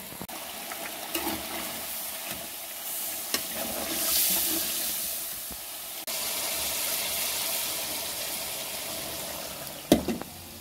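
Chicken pieces sizzling in hot oil in a metal pot while being stirred, with a few metal clinks of the spoon against the pot and one louder clank near the end.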